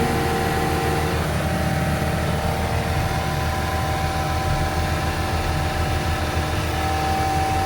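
Four-cylinder Deutz diesel of a Venieri 10.33C backhoe loader running at full RPM while it drives a HitchDoc snowblower attachment: a steady drone with a high whine over it. The whine shifts in pitch about a second in and grows stronger near the end.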